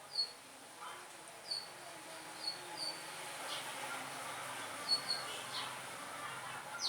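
A small bird chirping: short, high, falling chirps every second or so, over faint distant voices.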